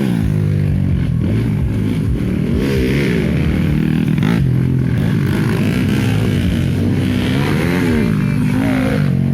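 Several dirt-bike engines racing, their pitch rising and falling over and over as the riders open and close the throttle.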